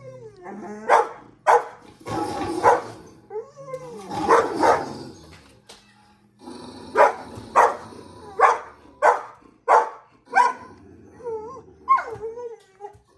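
Pet dog barking in short, sharp barks, with a longer growly outburst about four seconds in and a run of about six evenly spaced barks after the middle, then whining near the end.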